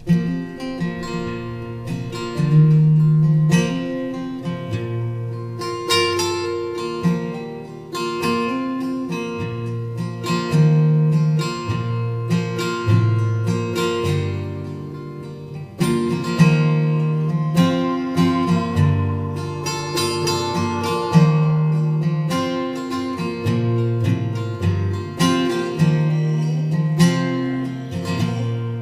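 Acoustic guitar strumming chords with no singing: the instrumental opening of a folk-pop song.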